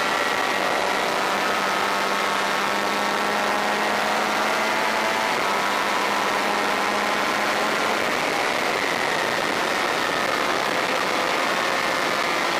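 Racing motorcycle engine, a Honda VFR400's V4, running hard on the track, heard from on the bike, its note drifting gently down and back up as the throttle changes.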